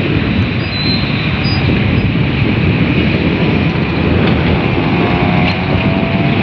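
Diesel engines of long-arm excavators running, a steady low rumble.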